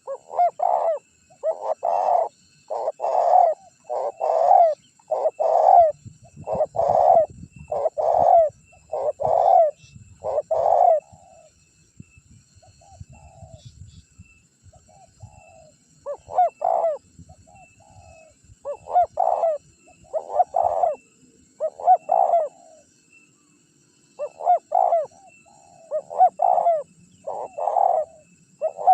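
Spotted dove (tekukur) cooing, a long run of low coo notes about one a second, breaking off about halfway through for a few softer, scattered notes before the cooing picks up again.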